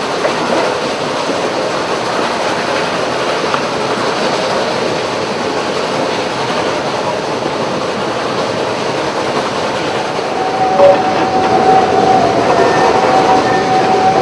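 Narrow-gauge train of open passenger cars rolling behind a Shay geared steam locomotive: a steady rumble and clatter of the cars on the track. About ten seconds in it gets louder and a steady high-pitched tone starts and holds, joined by a second, lower tone near the end.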